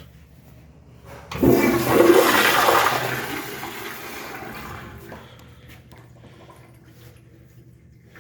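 Toto toilet flushing: a sudden rush of water about a second and a half in, loudest for a second or two, then dying away over the next few seconds.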